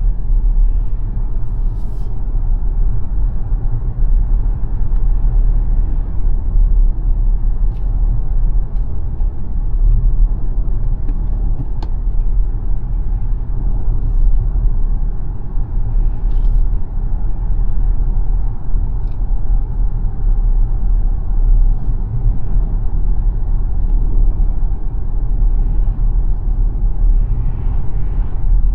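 Steady low road and tyre rumble of the XPENG G9 Performance electric SUV driving, with no engine note, and a few faint clicks.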